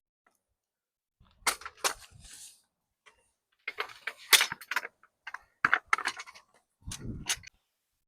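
Irregular series of sharp clicks and knocks, some with a dull thump beneath, in short clusters with quiet gaps between them, like objects being handled and set down.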